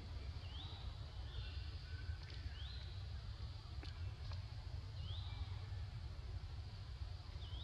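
A bird repeating a short whistled call that rises and then holds, about every two to two and a half seconds, over a steady low rumble, with a few faint clicks.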